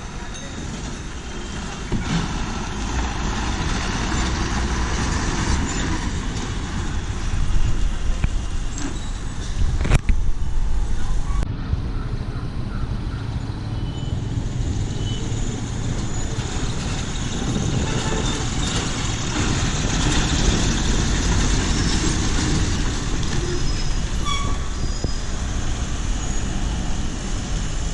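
Bus-station traffic: heavy diesel engines of buses and trucks running, with a few short horn toots over a steady roadway din. A sharp click comes about ten seconds in.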